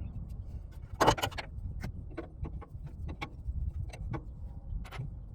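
Light clicks and taps of small metal fittings and tools being handled while reconnecting air-dryer fittings on a semi truck. A quick cluster of clicks comes about a second in, then single clicks at irregular intervals, over a low steady rumble.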